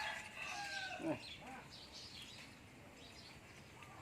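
Chickens clucking, a few short calls in the first second or so, then fainter chirps.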